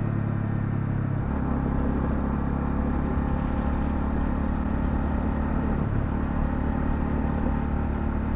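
Honda CL250's single-cylinder engine running steadily under way while riding. Its note shifts about a second in, then holds.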